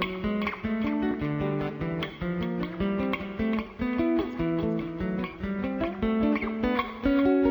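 Instrumental song intro: guitar playing plucked notes and chords in a steady rhythm, with no singing.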